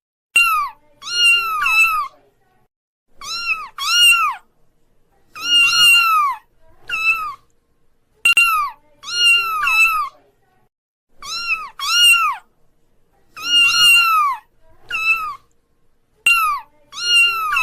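Kitten meowing over and over: high, thin, arching meows about one or two a second, often in quick pairs.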